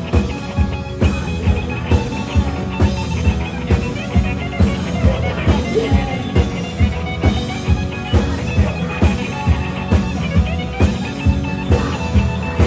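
Rock band playing live and loud, the drums keeping a steady beat of about three hits a second.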